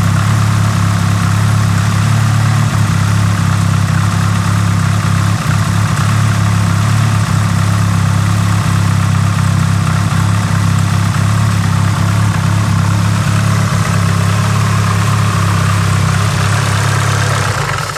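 Nissan SR20DET turbocharged inline-four engine running at a steady speed, warming up after a cold start, with a constant low hum and no change in revs. The sound drops away right at the end.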